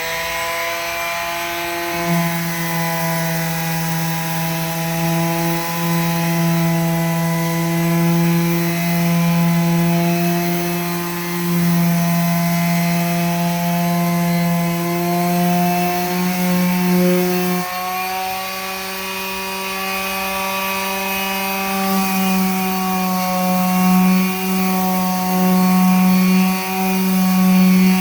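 An electric power tool's motor running continuously at a steady high speed, working on the boat. Its pitch steps up slightly about two-thirds of the way through.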